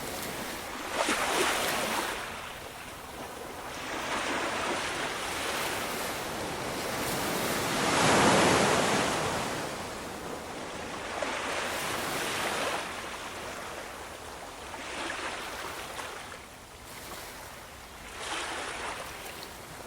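Ocean waves breaking and washing up the shore in repeated surges, the biggest about eight seconds in.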